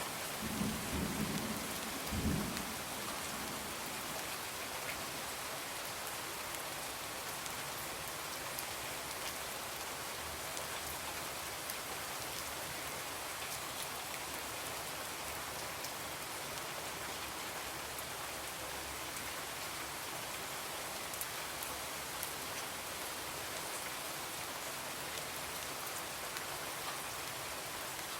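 Steady rain falling on a window, an even hiss, with a low rumble of thunder that fades out over the first two to three seconds.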